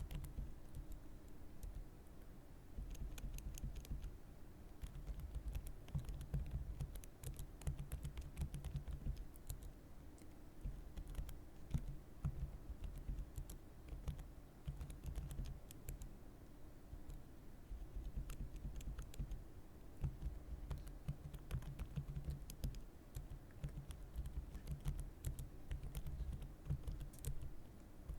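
Computer keyboard being typed on continuously, in runs of rapid key clicks with brief lulls between them.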